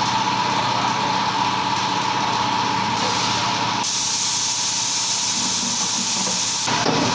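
A loud, steady high hiss of escaping pressure that starts about four seconds in and cuts off sharply, over a steady mechanical running noise with a faint whine.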